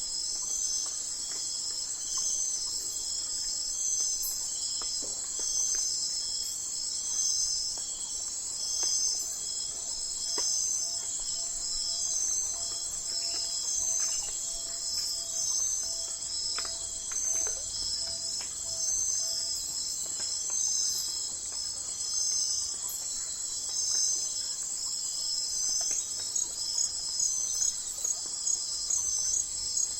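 Night forest insect chorus: crickets trilling high and dense in a steady pulsing rhythm. Near the end a faster, clearly pulsed call rises above the chorus.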